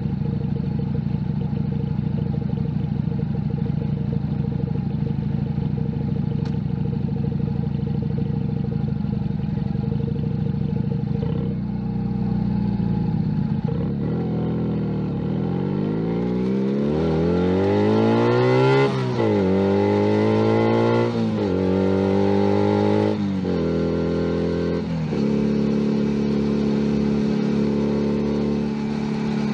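Junak M11 Cafe 125 cc single-cylinder motorcycle engine running steadily at low revs for the first dozen seconds. It then accelerates, the pitch rising and dropping back four times as it is shifted up through the gears, and settles into a steady cruise for the last few seconds.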